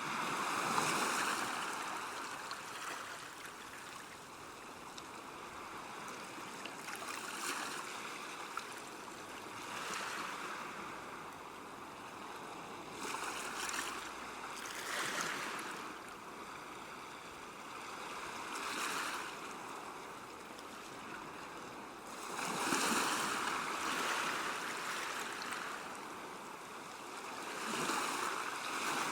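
Water at a river bank, a steady rush that swells and fades every few seconds, like small waves washing against the shore.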